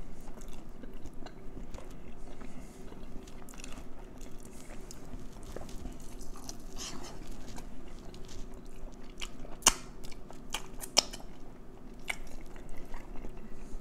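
Close-up mouth sounds of someone biting and chewing KFC chicken: wet chewing with scattered sharp clicks and smacks, two of them louder about ten and eleven seconds in.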